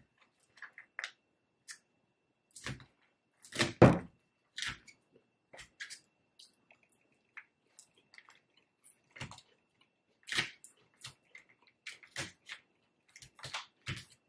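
Close-miked chewing of crisp salad: irregular crunches and wet mouth clicks, the loudest about four seconds in.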